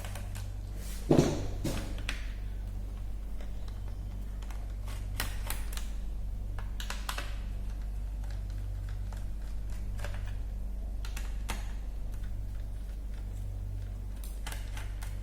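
Clicks and taps of a laptop's plastic body and small parts being handled during disassembly, with a louder knock about a second in. A steady low electrical hum runs underneath.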